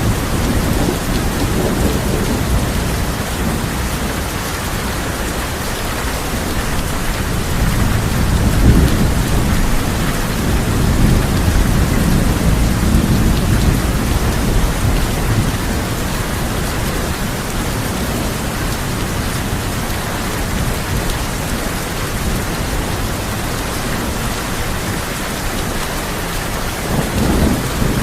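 Steady heavy rain falling on a tin roof, with low thunder rolling in and out: one swell about eight seconds in, a longer one a few seconds later, and another near the end.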